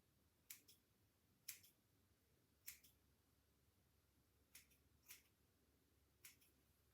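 Hair-cutting scissors snipping: six faint, crisp snips at irregular intervals, most heard as a quick double click.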